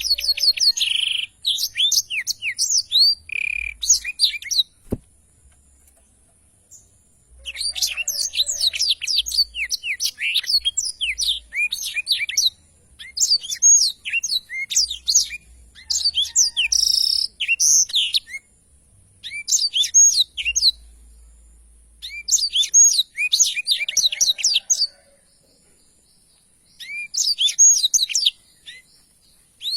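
A blackthroat (black-throated canary) sings long, rapid, twittering rolling song phrases, several seconds each, broken by short pauses. A single faint click comes about five seconds in.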